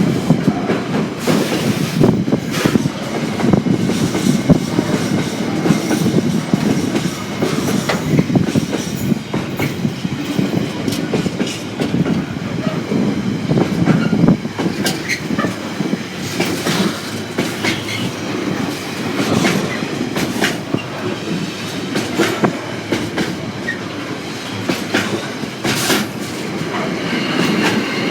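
A long freight train rolling past, its wagon wheels clacking over the rail joints in an irregular stream of knocks over a steady rumble. A thin, high wheel squeal comes in near the end.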